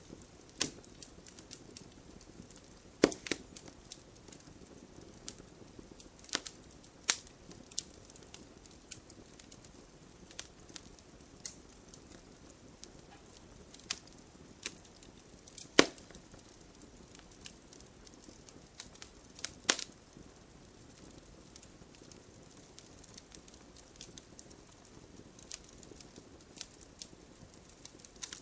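Wood fire crackling: irregular sharp pops and snaps over a soft steady hiss, with the loudest cracks about three seconds in and again about halfway through.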